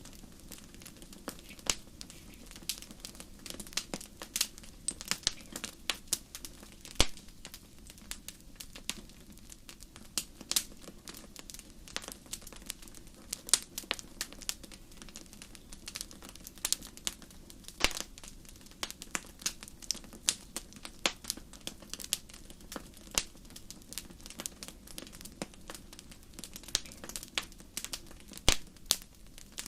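Wood fire crackling in a fireplace: a steady stream of irregular snaps and pops, a few louder ones standing out, over a low steady rumble of the flames.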